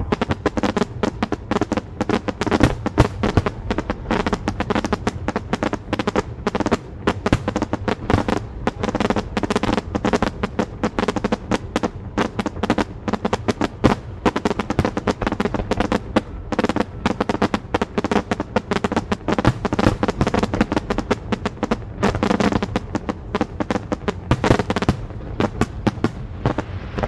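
Dense fireworks barrage: a rapid, continuous run of bangs and crackles, many a second. Steady musical tones, likely the show's soundtrack, sit underneath.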